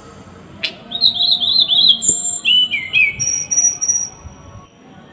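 Small songbird singing. A sharp chip is followed by a quick run of short repeated arched notes, then a few lower slurred notes and a thin high whistle.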